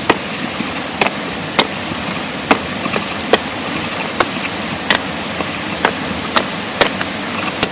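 Repeated sharp strikes of a hand tool, one every half second to second, over a steady hiss.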